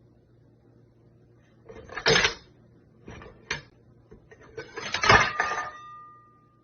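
Clattering knocks of hard objects, in three bursts, the loudest near the end leaving a brief metallic ring.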